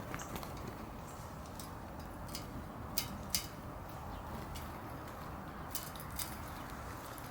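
Small garden birds feeding at a feeder: scattered sharp clicks and taps at irregular intervals, the two loudest close together about three seconds in and another pair near six seconds, over a steady background hiss.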